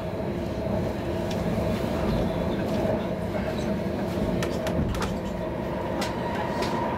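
Interior running noise of a Helsinki Sm5 (Stadler FLIRT) electric commuter train: a steady rumble with a constant motor whine underneath. A few sharp clicks come from the running gear, most of them about four to five seconds in.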